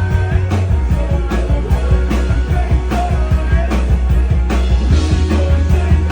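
Live rock band playing, with heavy bass, driving drums on a steady beat and guitar.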